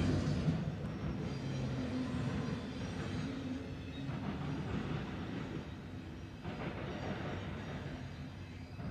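Double-stack intermodal well cars of a freight train rolling along the rails, a steady low rumble of wheels on track that eases off near the end as the train moves away.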